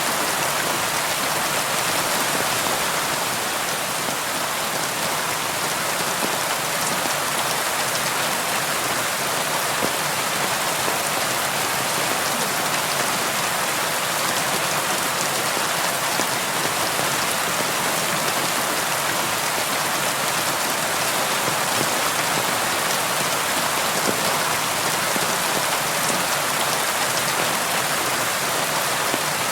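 Steady rain falling and pattering on a window, an even hiss of many small drops with no lulls.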